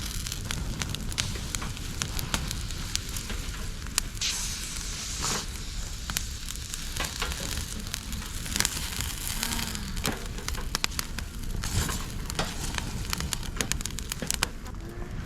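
Dry bamboo, twigs and leaves burning in a fire stand: a steady hiss with frequent sharp crackles and pops.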